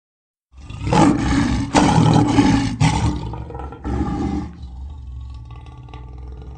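A big animal roaring, as a sound effect: several loud surges over about two seconds, a shorter one a second later, then a quieter rumbling tail.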